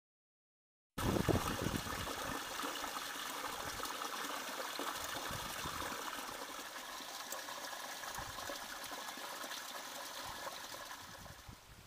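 Steady rushing, trickling water that starts suddenly about a second in and fades near the end.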